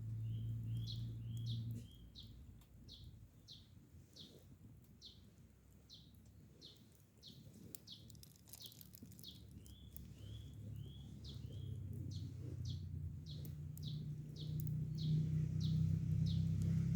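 A bird calling over and over in quick, short, falling chirps, two or three a second, over a low steady hum that fades out about two seconds in and builds back up toward the end.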